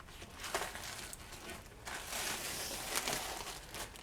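Rustling and crinkling as a strip of window-glass setting material is handled and worked along the edge of a pane, with small clicks. The rustling is loudest in the second half.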